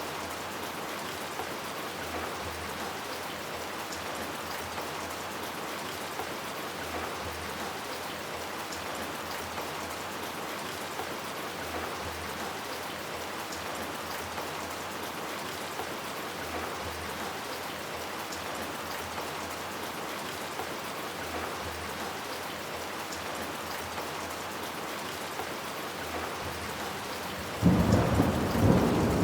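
Steady heavy rain falling on hard surfaces. Near the end a sudden loud clap of thunder breaks in and starts to rumble away.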